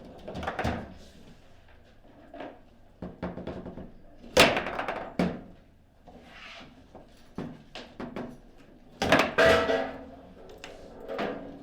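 Table football being played: a run of sharp knocks as the rod-mounted players strike the ball and the ball hits the table's walls. The loudest knocks come about four seconds in and in a quick cluster about nine seconds in.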